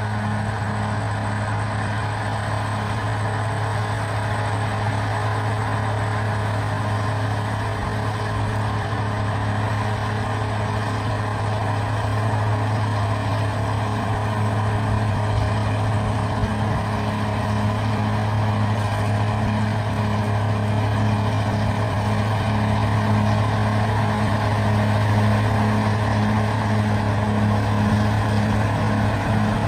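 Bulldozer's diesel engine running steadily with a constant low hum, growing slightly louder about halfway through.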